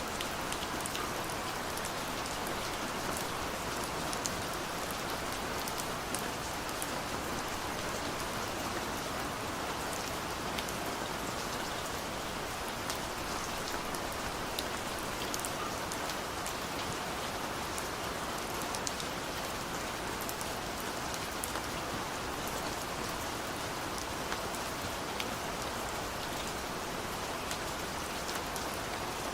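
Steady rainfall, an even hiss with many small drops pattering and ticking on surfaces.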